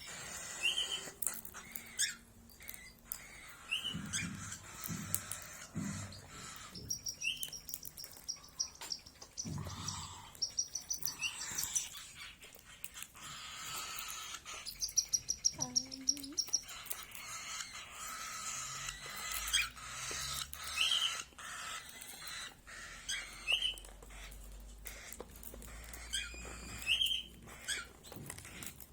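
Small birds chirping: short rising chirps every few seconds and several quick high trills, with scattered light clicks and taps.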